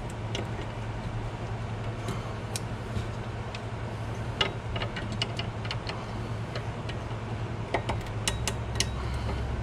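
Pliers working a cotter pin through the castle nut of a new front upper control arm ball joint: scattered small metal clicks and ticks over a steady low hum.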